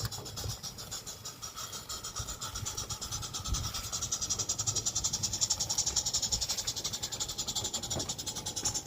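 Live steam garden-railway locomotive running, its exhaust chuffing in a fast steady rhythm with a hiss of steam; the beats grow louder about three and a half seconds in.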